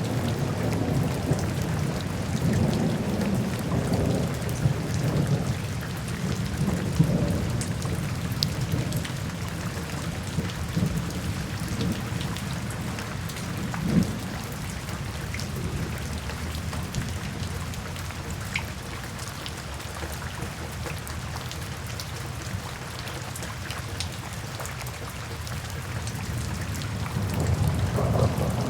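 Steady rain falling, a dense hiss with scattered drop ticks, over a low rumble that swells in the first few seconds, eases through the middle and builds again near the end.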